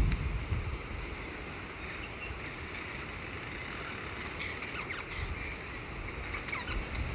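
Wind buffeting the microphone, strong at first and easing after about a second, with faint short bird chirps in the background during the second half.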